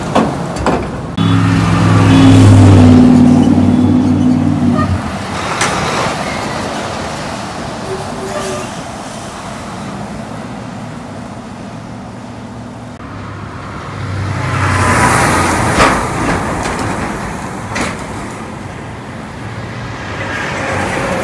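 Semi-truck diesel engines pulling away: one runs loudly with a low, even engine note from about a second in for about four seconds, and a second swells up and passes about two-thirds of the way through, with scattered knocks and clanks in between.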